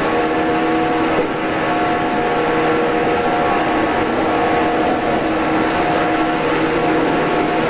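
JR East 113 series electric train running, heard from inside the carriage: a steady rumble with a constant whine of motors and gears over it.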